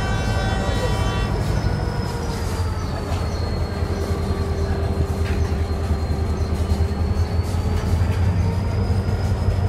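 Passenger train pulling slowly out of the station, its coaches rolling past with a steady low rumble. A thin high whine dips in pitch about three seconds in and rises again near the end. A ringing chord of tones fades out in the first second or two.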